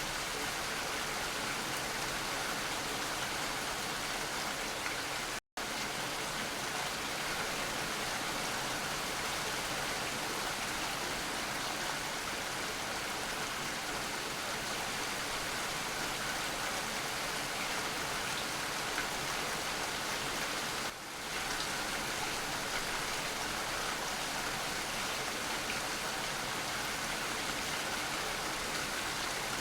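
Steady, even rain falling, with no thunder or distinct drops standing out. The sound cuts out completely for a split second about five seconds in and dips briefly again about 21 seconds in.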